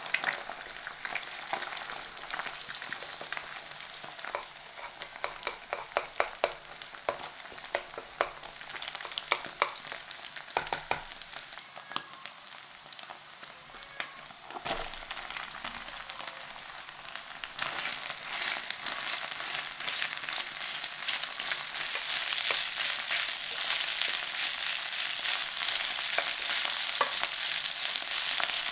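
Food stir-frying in hot oil in a pan, sizzling steadily, with frequent clicks and scrapes of a utensil stirring it. About two-thirds of the way in the sizzle becomes louder and denser.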